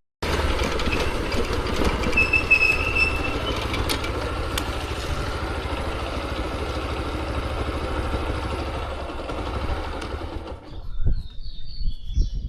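Motorcycle on the move: steady engine hum with wind and road noise on the rider's microphone, which falls away about ten and a half seconds in, leaving a few scattered knocks.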